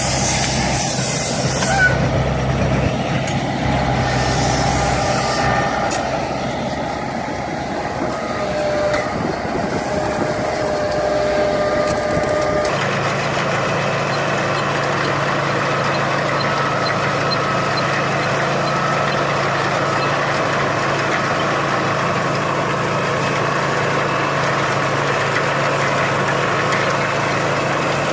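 Farm machinery at work: a tractor engine and hay baler running steadily with mechanical clatter and hiss, changing suddenly about thirteen seconds in to another machine with a steady low engine hum.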